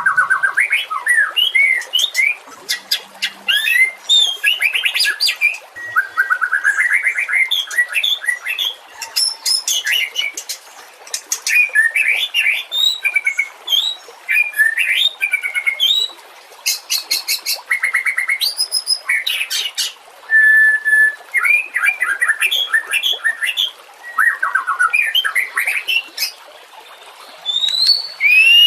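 White-rumped shama singing a long, varied song of clear whistled phrases, fast trills and high, buzzy rattles, with only short pauses.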